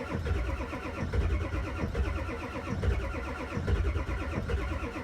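Ford 7.3 Power Stroke V8 turbodiesel cranking over on the starter in the cold, with an even chugging rhythm, without firing. It is being cranked long to build oil pressure before it will start.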